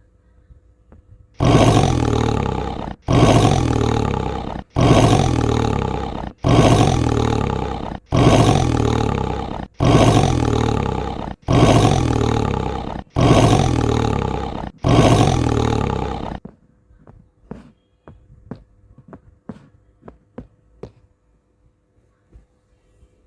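A recorded dinosaur roar sound effect, the same roar repeated nine times back to back, each starting loud and fading over about a second and a half. Faint light clicks follow near the end.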